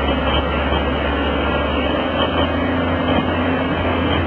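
A heavy machine's engine running steadily: an even mechanical noise over a constant low hum.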